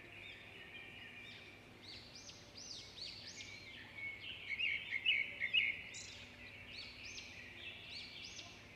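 Small birds chirping: many short, high calls that arch up and down in pitch, repeated and overlapping, busiest around the middle.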